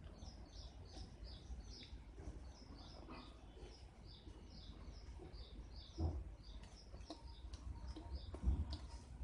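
A small bird chirping over and over, about three to four short high chirps a second. Two dull thumps come about six and eight and a half seconds in.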